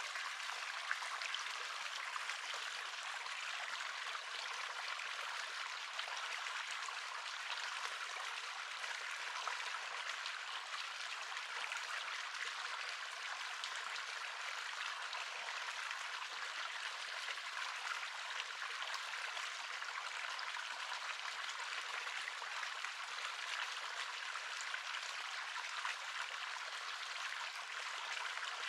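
River water flowing in a steady, even rush with fine splashing and little low rumble.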